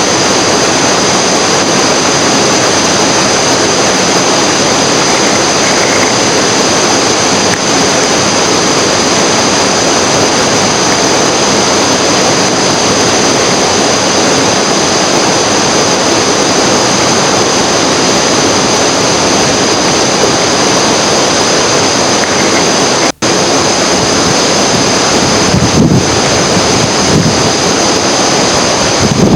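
Loud, steady rushing of water, cutting out for an instant about 23 seconds in.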